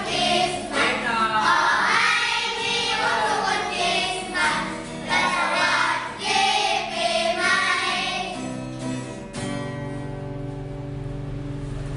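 A group of children singing a song together with instrumental backing; about nine and a half seconds in the voices stop and a steady held chord carries on.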